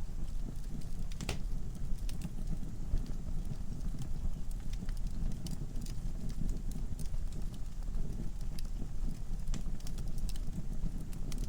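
Wood fire burning in a fireplace: a steady low rumble of flames with scattered sharp crackles and pops of the burning logs, one louder pop about a second in.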